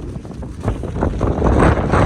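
Strong gale wind buffeting the microphone: a loud, uneven rumble that surges up about a second in.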